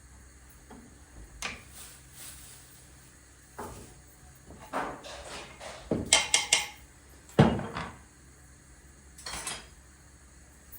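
Hard objects being handled and set down: scattered knocks and clicks, a quick run of sharp clinks about six seconds in, then a heavy knock.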